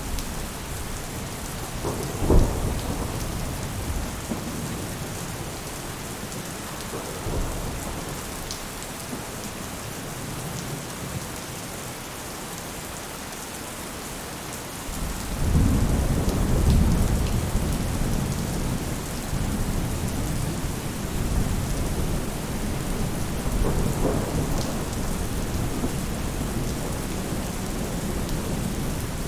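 Steady rain falling on a roof. A short, sharp clap of thunder comes about two seconds in, and a long, low rolling rumble of thunder starts about halfway through and slowly dies away.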